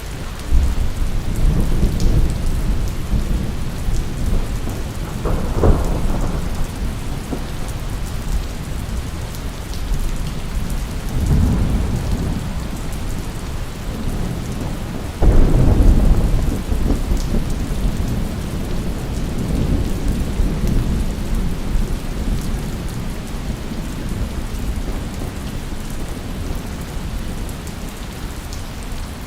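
Thunderstorm: steady heavy rain with thunder rumbling in several rolls. The loudest roll breaks in suddenly about halfway through and dies away slowly.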